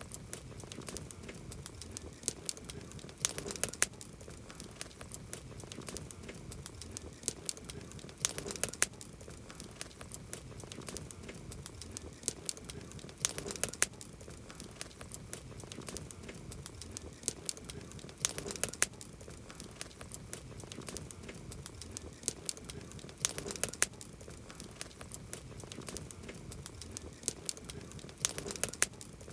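Campfire burning, crackling with a constant stream of small pops and snaps, and a cluster of louder pops about every five seconds.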